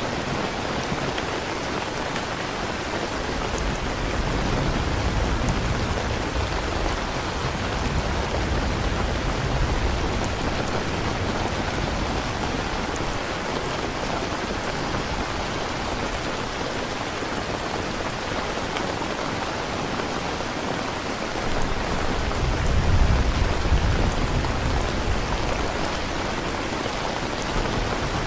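Steady rain ambience, an even patter of rain, with a low rumble swelling up twice, a few seconds in and again near the end.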